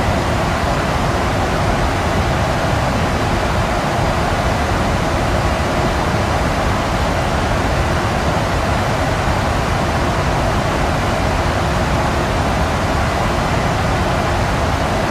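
Steady rushing air and engine noise inside a Boeing 737-800 at cruise altitude, an even hiss with a faint steady hum underneath.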